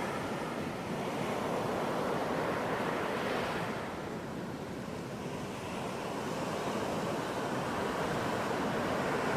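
Ocean surf washing onto a beach: a steady rush of breaking waves that eases a little about four seconds in and builds again toward the end.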